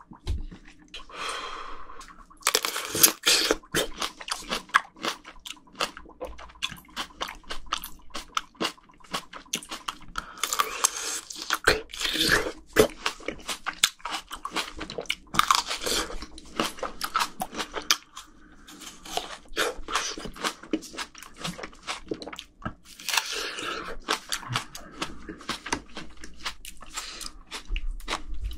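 Plums frozen hard on dry ice being bitten and chewed close to the microphones, with repeated sharp crunches in clusters and short pauses between bites.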